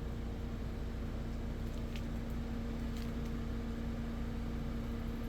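A steady low mechanical hum, with a couple of faint clicks about two and three seconds in.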